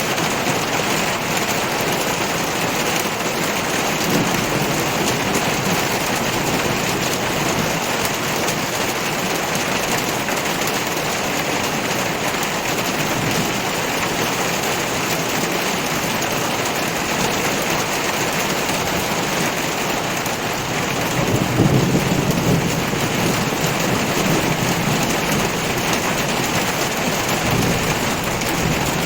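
Heavy rain pouring steadily onto surfaces, with low rolls of thunder. The strongest rumble swells about two-thirds of the way in, and a weaker one comes a few seconds in.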